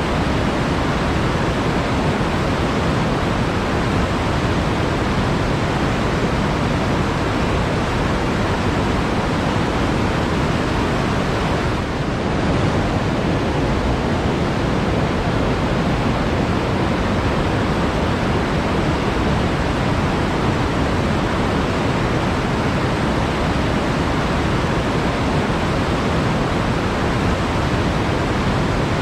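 Water flowing steadily, an even, unbroken rush that dips very briefly about twelve seconds in.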